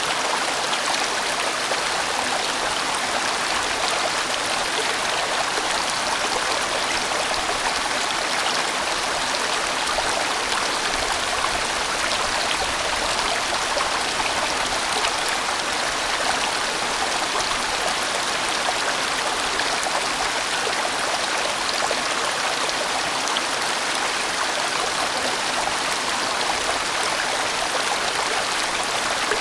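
A large mountain stream rushing and splashing steadily over its rocky bed.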